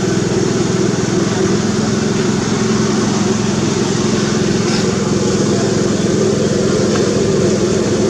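A steady, unchanging engine drone.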